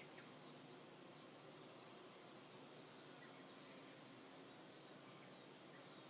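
Faint distant birdsong: a string of quick high chirps and twittering notes, busiest in the middle, over a faint steady low hum.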